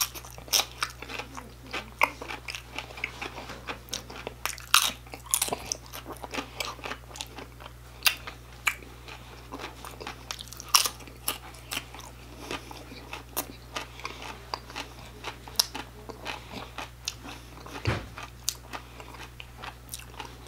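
Close-up chewing of battered, sauced fried shrimp: irregular crisp crunches and wet mouth clicks, with a short low hum near the end.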